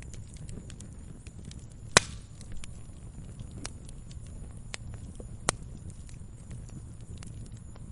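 Wood fire burning: a steady low rumble with scattered crackles and sharp pops, the loudest pop about two seconds in and another about five and a half seconds in.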